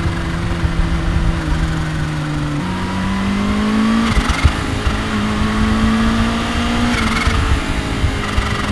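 Kawasaki Ninja H2's supercharged inline-four running under way at a fairly steady pitch, its note stepping up about two and a half seconds in and swelling briefly twice later, over a dense low rumble.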